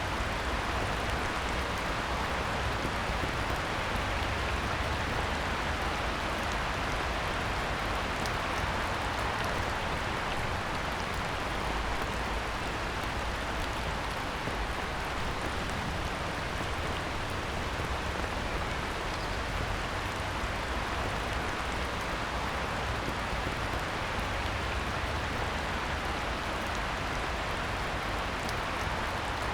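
Heavy rain falling on a pond, a steady even hiss of drops, just beginning to ease off.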